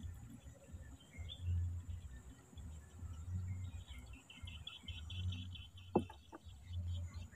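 Riverbank ambience: a bird gives a fast run of high chirps about four seconds in. Under it are soft low thuds, about one every second and a half, and a couple of sharp clicks about six seconds in.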